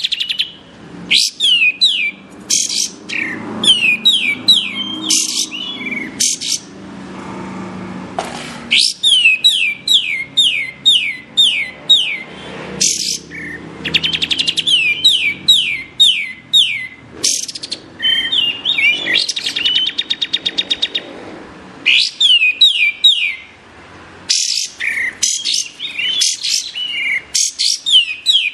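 A kapas tembak songbird singing: quick series of sharp whistled notes that each slide steeply downward, a few notes per burst, with short pauses between bursts and a fast buzzy trill about two-thirds of the way through.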